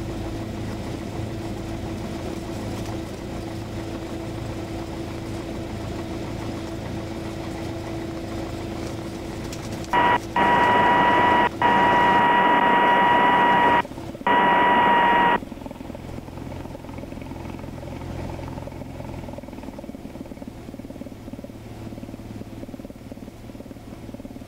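Steady drone of a light aircraft's engine heard through the cockpit intercom. About ten seconds in, a loud steady tone comes in over it for about five seconds, broken by three short gaps, then stops.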